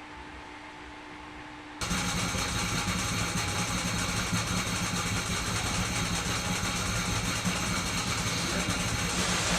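A faint steady hum, then about two seconds in a loud machine noise cuts in abruptly and runs steadily, with a low drone under a hiss.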